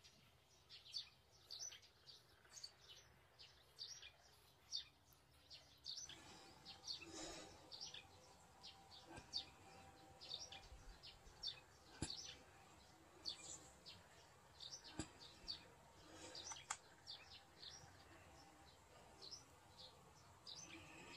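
Faint, irregular chirping of small birds in the background, with a few soft clicks.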